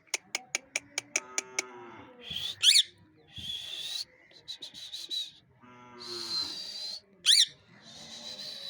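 Pet parrot calling angrily: a quick run of clicks, a low, drawn-out call falling in pitch, then sharp shrill screeches and hissing rasps, with the pattern coming round a second time.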